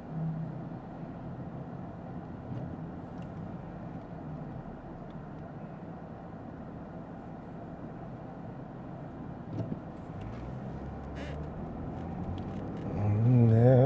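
Steady low drone of a Lexus ES 350 F Sport's road and engine noise heard inside the cabin while driving, with a few faint clicks. Near the end a man's voice sings a long wavering note.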